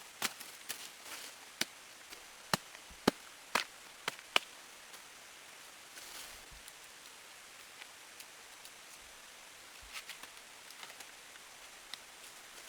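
A series of sharp, irregular knocks or snaps, about seven in the first four and a half seconds, then only a few faint ticks.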